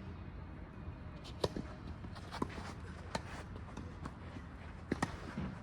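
Tennis balls being struck and bouncing on the court: scattered sharp pops at irregular intervals, the loudest about a second and a half in and a close pair near the end, over a steady low rumble.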